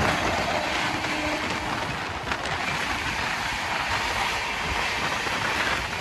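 Indian Railways coach running at speed, heard from its open doorway: a steady rush of wind with wheel and rail noise. A horn's tone dies away about a second in.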